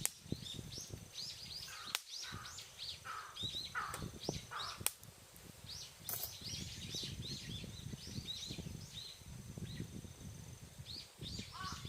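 Many small birds chirping continuously in a dense chorus, with some lower calls in the first half. A few sharp cracks break through over a steady low rumble.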